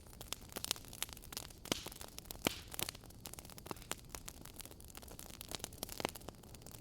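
Fireplace fire crackling: irregular sharp pops and snaps, a few louder than the rest, over a faint steady hiss.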